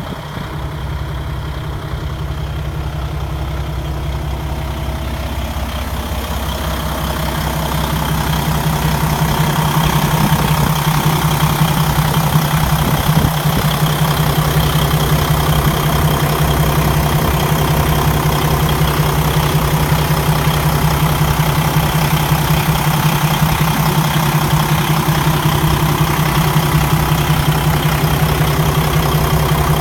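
PACCAR MX-13 inline-six diesel engine of a Kenworth T680 idling steadily, growing louder from about six seconds in.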